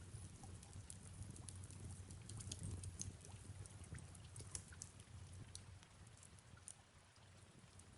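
Faint fireplace ambience: irregular small crackles and pops from burning wood over a low steady rumble, with soft rain falling.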